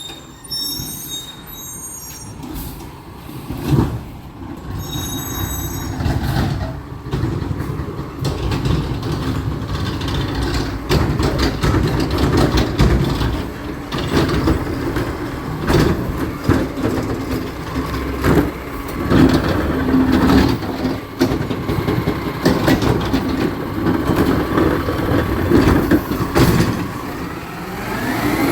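Recycling truck working at close range: its engine runs steadily under many metallic clanks and knocks. Short high electronic beeps sound at the start and again about five seconds in, and the engine revs up right at the end.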